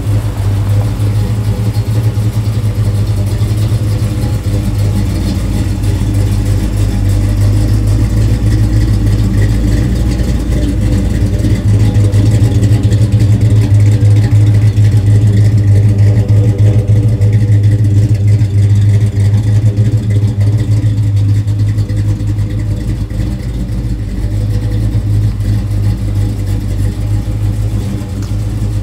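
1972 Chevrolet Chevelle Malibu's engine idling steadily, with a deep, even exhaust hum that grows somewhat louder for a stretch in the middle, when heard from behind the car at the tailpipes.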